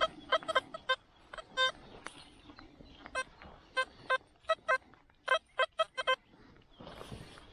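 XP Deus metal detector giving a run of short, same-pitched beeps in irregular bursts, a few held a little longer, as the coil passes over targets.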